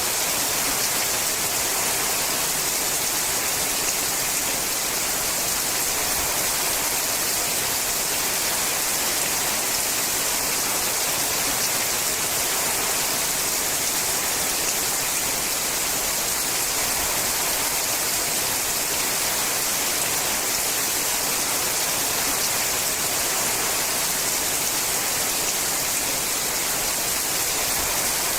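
Heavy rain falling on a sheet-metal roof: a steady, dense hiss that holds even throughout, with no single drops standing out.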